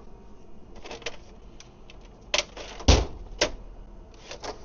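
Metal hand tools and sockets clinking and clattering as they are rummaged in and picked out of van tool drawers: a few sharp clicks, with one heavier knock about three seconds in.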